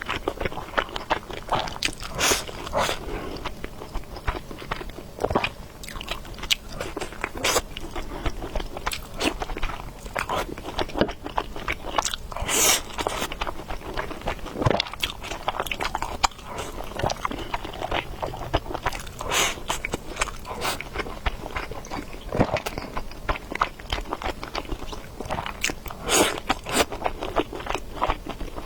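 Close-miked eating sounds of a person biting and chewing food, with many short irregular mouth clicks and smacks.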